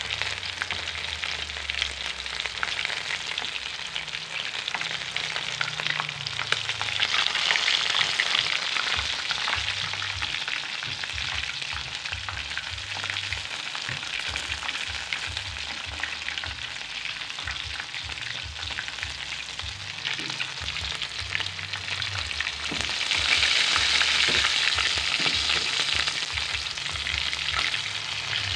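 Chicken wings frying in hot oil in a wok: a steady crackling sizzle that swells louder twice, about a quarter of the way in and again near the end.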